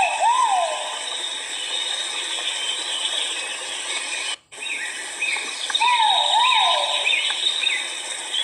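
Great argus pheasant calling: pairs of loud, arching whistled notes, heard at the start and again about six seconds in. Short, higher chirps from another bird repeat between them over a steady hum of forest insects, and the sound cuts out briefly about halfway through.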